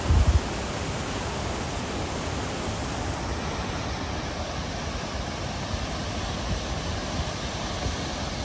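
Steady rushing of a rain-swollen stream running in flood, with a brief low thump at the very start.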